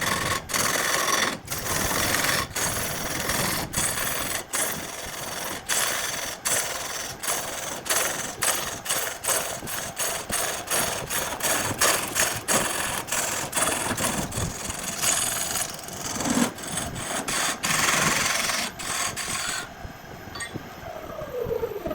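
Wood being sanded or rasped: a scratchy abrasive noise in short, cut-together stretches. It drops away near the end, where a falling whine comes in.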